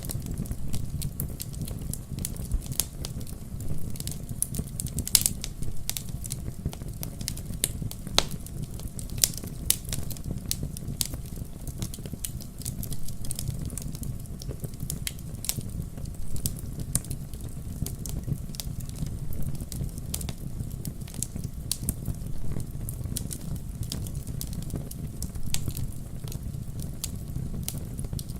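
Campfire burning steadily, with a low rumble of flames under many sharp crackles and pops from the burning wood.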